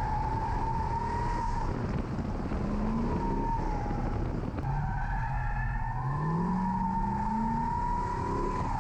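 C6 Corvette V8 drifting, with tire squeal throughout and engine revs climbing from about five seconds in.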